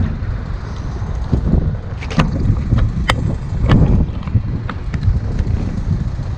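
Wind buffeting the microphone as a steady low rumble, with a few sharp clicks about two, three and nearly four seconds in.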